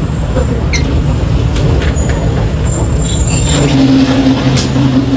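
Passenger train running on the rails, a steady loud rumble and rattle heard at the coach door, with a few sharp metallic clicks. A steady low hum joins in about three and a half seconds in.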